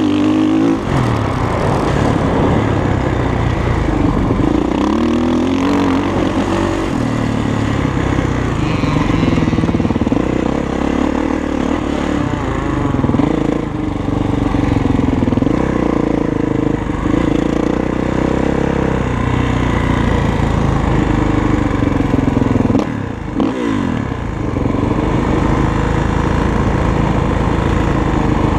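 Dirt bike engine revving hard, its pitch climbing and falling over and over as the bike accelerates and backs off. The engine briefly dips about three quarters of the way through.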